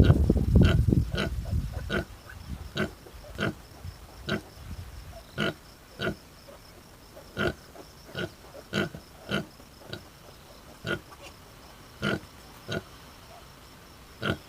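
Pigs grunting: a dense, loud stretch of grunting for about the first two seconds, then short single grunts repeating about every half second to a second.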